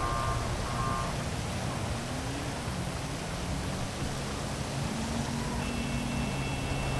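Heavy rain falling as a steady hiss over a city, with the low hum of traffic engines underneath. A few short beeps sound in the first second, and a thin steady high tone comes in near the end.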